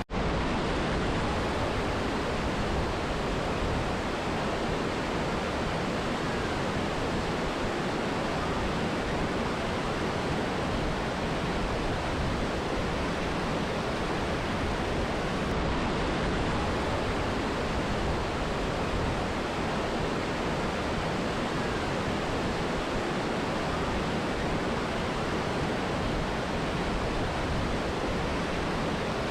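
Mountain river and waterfall: a steady, even rush of falling and flowing water with no breaks.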